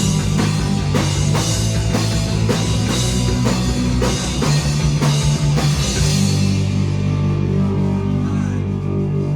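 Live rock band playing, with drums and cymbals keeping a steady beat over guitar and bass. About six seconds in the drums stop and a held final chord rings on: the song's ending.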